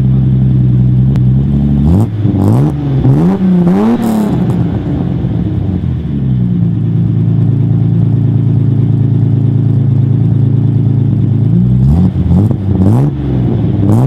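Ford Sierra's swapped-in 2.9-litre V6 running, revved in several quick blips about two seconds in and again near the end, and holding a steady note in between.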